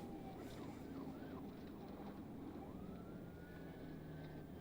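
Police car siren, fairly faint: a quick wavering tone, then a slow rise that holds high, over the low steady rumble of the pursuing car's engine and road noise.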